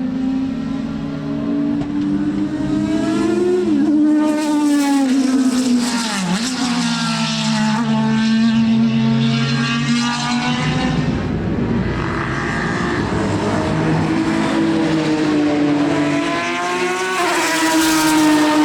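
Racing car engines at full song on track, the notes climbing with each burst of throttle and falling away, with several rises and drops as cars accelerate, change gear and pass by.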